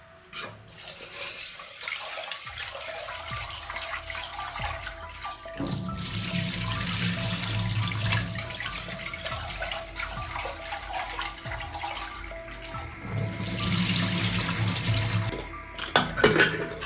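Water running from a tap, growing louder twice, then shutting off near the end, followed by a few clattering knocks.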